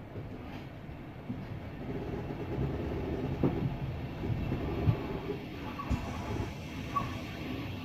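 Passenger train running on the rails, its low wheel rumble growing louder as it picks up speed after leaving the station, with a few sharp knocks from the track along the way.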